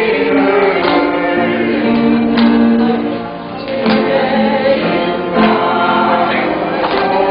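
A group of voices singing a church praise song together, with long held notes.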